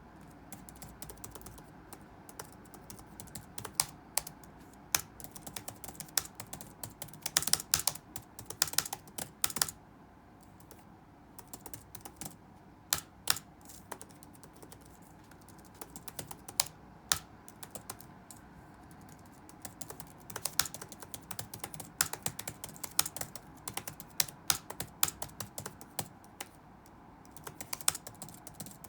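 Typing on a computer keyboard: irregular runs of keystrokes with a few louder key strikes, pausing for a couple of seconds twice, over a steady low background hum.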